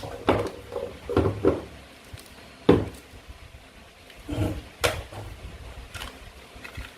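Toy fruit and vegetable pieces being cut and handled: scattered light knocks and clicks. There is a small cluster in the first second and a half, one sharper knock nearer three seconds in, and another pair of knocks around four and a half to five seconds.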